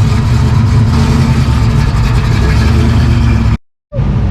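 A car engine running steadily with a loud low rumble, cutting off suddenly near the end.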